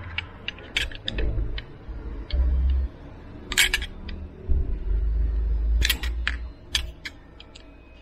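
Irregular sharp clicks and knocks of hard parts being handled, about a dozen, with dull low thumps in between.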